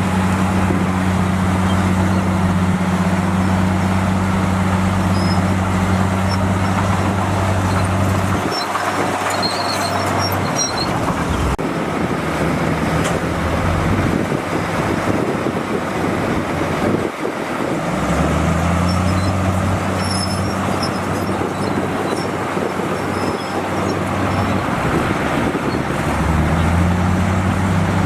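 Heavy diesel engine of earthmoving equipment running under load. It eases off about a third of the way in, then revs back up about two-thirds of the way through and rises again near the end.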